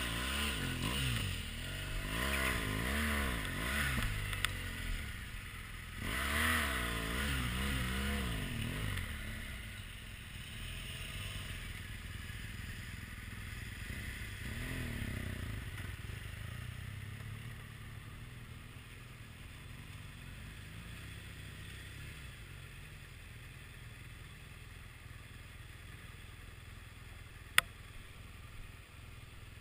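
BMW R1200GS motorcycle's boxer-twin engine revved up and down over and over for the first several seconds, then running quieter and steadier; a single sharp click near the end.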